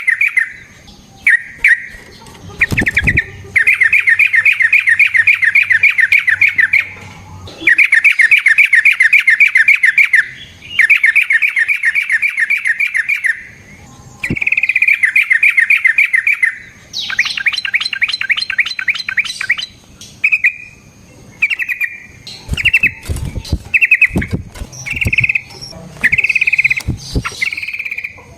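Yellow-vented bulbul (trucukan) singing long, very fast rolling trills in bursts of two to three seconds with short pauses between them, breaking into shorter phrases near the end. A few low thumps come in the latter half.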